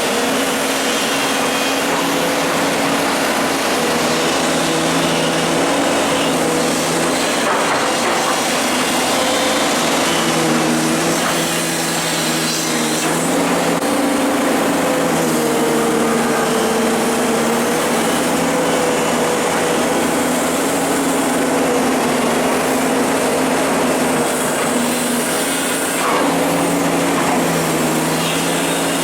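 Hydraulic excavator's diesel engine running steadily under working load, its note rising and falling a little as the machine works.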